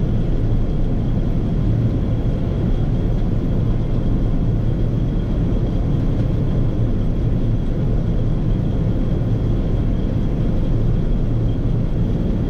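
Massey Ferguson 9690 combine running steadily under harvest, a continuous low drone with a faint steady high whine above it.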